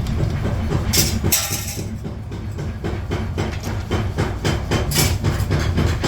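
Rapid, rhythmic hammer strikes on steel over a steady machine hum, typical of forging. The strikes ease off about two seconds in, then come back faster and closer together.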